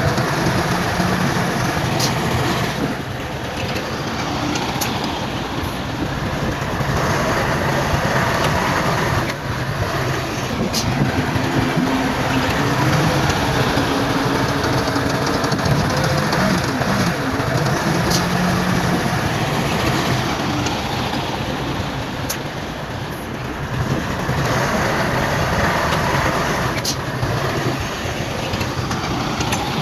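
Bulldozer's diesel engine running hard, its note swelling and easing every few seconds as it works, with a few sharp clicks and knocks from the machine.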